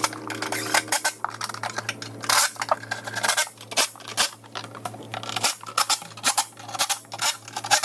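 Irregular metallic clinks, taps and knocks of hand tools, bolts and nuts being worked while a bumper and valance are bolted onto a truck.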